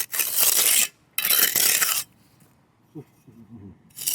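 Two strokes of gritty hissing, each just under a second, from work on a dry-pour concrete slab corner as extra concrete mix is put on and worked in.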